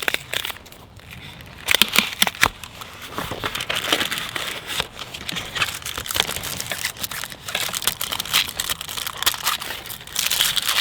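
Crinkly material being handled and crumpled: a dense run of rustling and crackling, loudest about two seconds in and again near the end.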